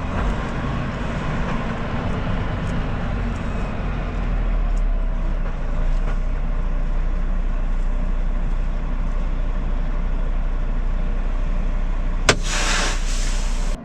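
Semi truck running, a steady low engine and road rumble heard from inside the cab. About twelve seconds in comes a sharp click followed by a short burst of hiss.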